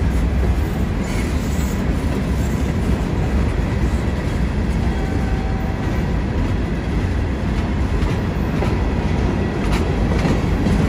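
Freight train rolling past: a steady low rumble from the cars, with occasional faint clicks from the wheels.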